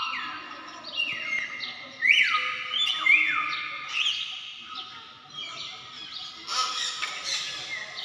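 Birds calling: a string of overlapping whistled calls that slide down in pitch, with a louder cluster about two seconds in and again near six and a half seconds.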